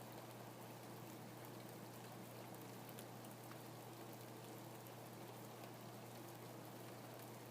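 Rain falling steadily and faintly, a soft even hiss with individual drops ticking through it.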